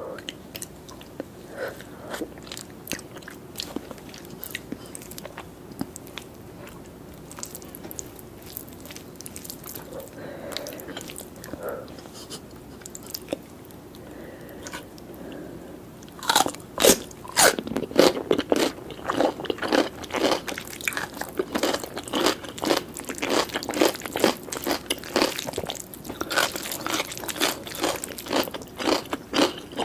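Close-miked eating of a curry and rice meal: soft, scattered wet mouth clicks and chewing at first, then from about halfway loud, crunchy bites and chewing, several strokes a second. A faint steady hum sits under the quieter first half.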